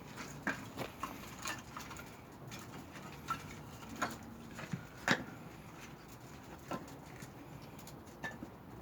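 Pine logs burning in the firebox of a traditional wood-fired kiln, crackling with irregular sharp pops over a faint steady hiss; the loudest pop comes about five seconds in.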